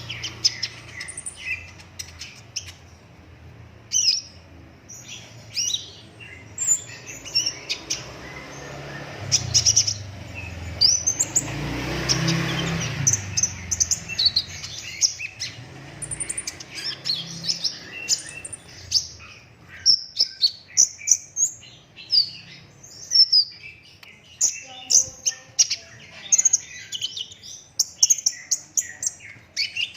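Sunbird (kolibri ninja) singing a fast, dense run of high, sharp chirps and trills with hardly a pause. About a third of the way in, a rushing noise swells up under the song and fades again.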